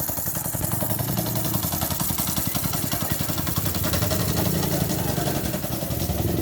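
Small motorcycle engine of a homemade mini buggy idling, with even firing pulses, picking up slightly about four seconds in.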